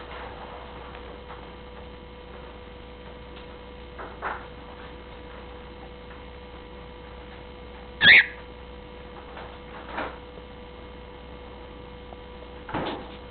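Steady electrical hum, broken about eight seconds in by one short, high call from a pet bird, with a few faint taps scattered through.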